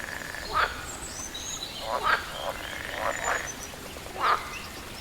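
Frogs croaking in short calls about once a second, over a steady background hiss, with thin high bird chirps between the croaks.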